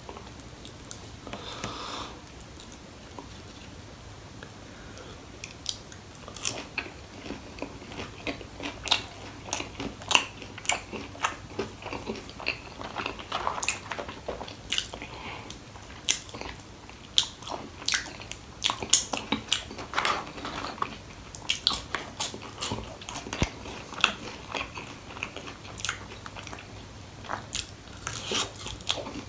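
Close-up chewing and biting of fried chicken popcorn and French fries, with irregular sharp crunches that come thick and fast from about six seconds in.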